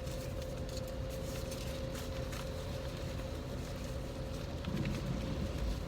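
Steady hum inside a car with its engine running, a constant low drone with one steady tone over it, and faint scattered ticks.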